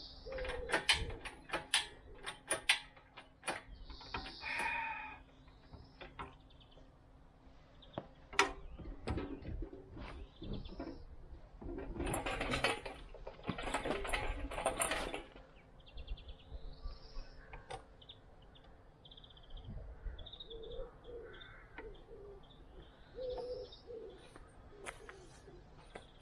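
Birds chirping, with the low coo of a pigeon or dove, over a run of sharp knocks and clicks. About twelve seconds in there is a louder stretch of rattling clatter lasting a few seconds.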